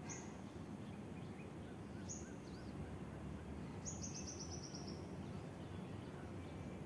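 A songbird calling: a short, sharp high call right at the start and again about two seconds in, then a rapid run of about nine high notes that drop slightly in pitch, over a faint, steady, low background rumble.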